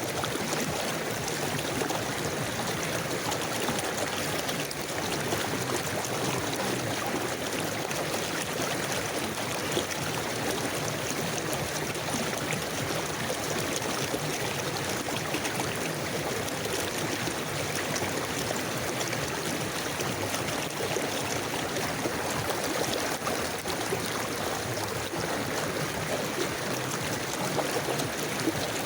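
River water flowing steadily over stones in an even, unbroken rush.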